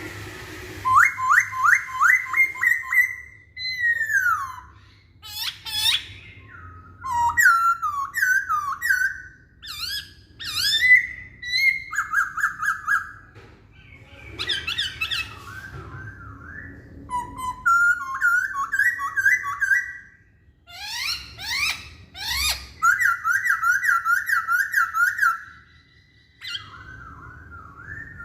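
Black-throated laughingthrush (Poksay Hongkong) singing loud, varied whistled phrases, with fast runs of repeated rising notes and short pauses between phrases.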